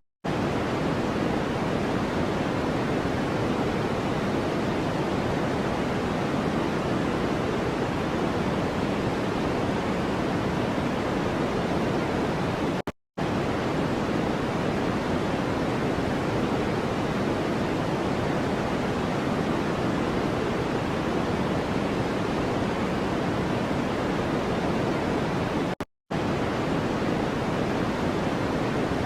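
Steady white-noise track: an even, deep hiss with no tone or rhythm in it, heavier in the low end than the high. It cuts out to silence for a split second twice, about 13 seconds apart.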